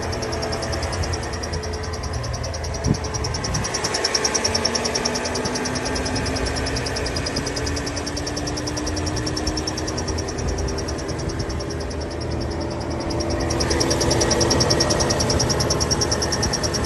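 Volvo SUV engine running with a new noise from the engine bay: a rapid, even, high-pitched chirping over the engine sound, with a faint tone slowly rising partway through. The workshop took it for failing pulleys and judged it not normal, serious enough that the vehicle should not be driven.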